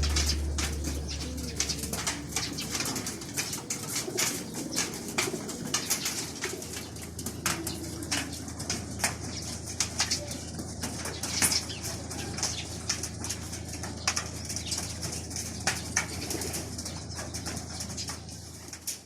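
Racing pigeons cooing, with frequent short sharp wing flaps and claps scattered through.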